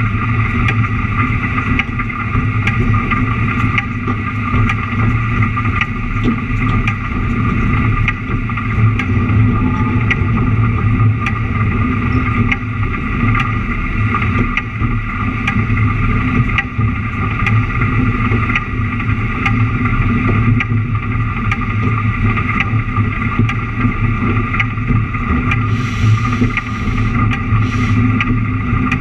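Narrow-gauge museum train running along the track: a steady engine and running-gear drone with faint scattered clicks from the rails. Near the end there are two short hissing bursts.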